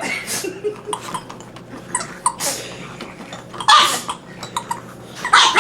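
A dog making short, noisy breathy bursts, with scattered sharp clicks between them.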